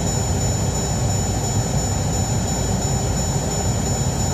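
HVAC blower fan of a 2014 Dodge Durango running with the dash opened up: a steady, loud rush of air and motor rumble, with a thin steady high whine over it.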